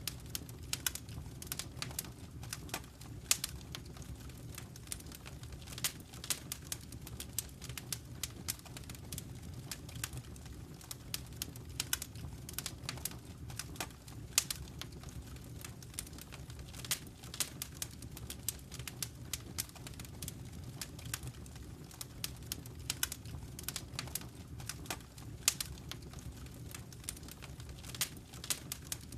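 Wood fire crackling in a fireplace: frequent sharp pops and snaps, several a second, over a low steady rumble of the burning fire.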